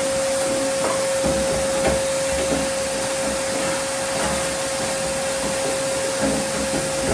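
Shop vacuum running steadily, a constant motor whine over a rushing hiss, with a few faint knocks, as it picks up grinding and welding debris from a car's floor pan.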